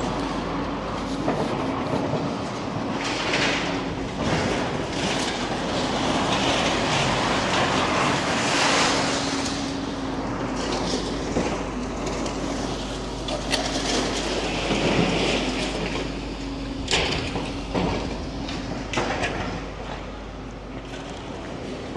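Demolition machinery running: a steady diesel engine drone under a clanking, crunching noise, with a few sharp knocks near the end.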